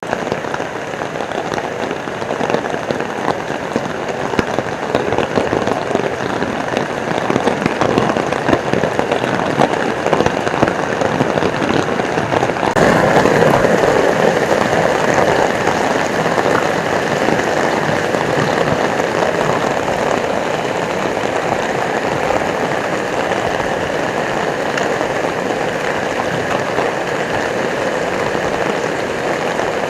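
Heavy rain pouring down, a dense steady patter of drops that turns suddenly louder and fuller about halfway through.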